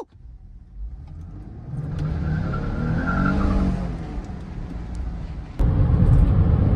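Car engine revving up and back down, then, after an abrupt cut near the end, louder steady engine and road rumble of a car under way.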